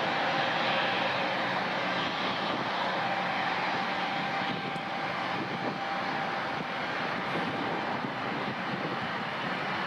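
Airliner engines running, a steady rush of noise with a faint steady whine, easing slightly about halfway through.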